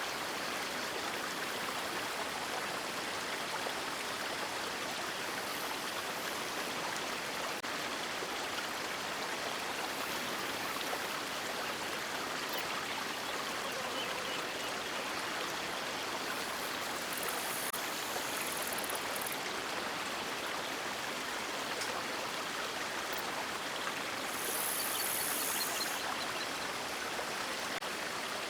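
Steady rush of river water flowing over rocks, with a brief brighter hiss swelling slightly near the end.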